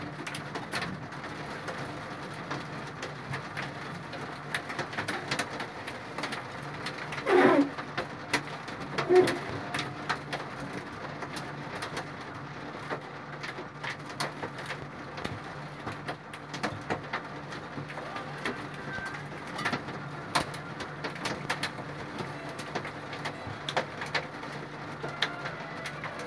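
A bird cooing twice, about seven and nine seconds in, over a steady low hum and many short scattered ticks.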